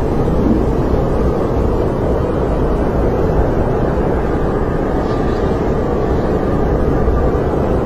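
Snowstorm wind blowing in a steady, deep rush. About five seconds in, a faint wavering whistle joins it.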